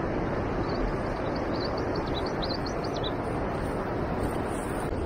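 A small bird gives a quick run of high, rising chirps from about half a second to three seconds in, over a steady rushing outdoor noise that is heaviest in the low end.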